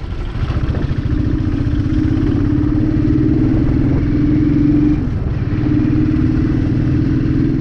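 Motorcycle engine running while the bike is ridden along the road, recorded from on board. The engine note holds steady and rises slightly. It dips briefly about five seconds in, then picks up again.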